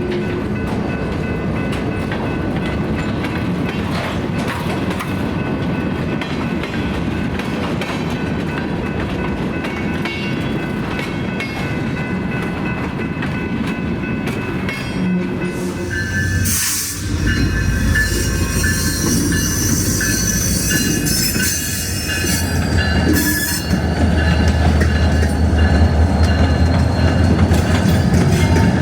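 Freight train rolling slowly on a branch line, its wheels squealing in the curves over a steady rumble. About halfway through the sound changes suddenly, and after that the low diesel rumble of the locomotives is stronger, growing louder again near the end.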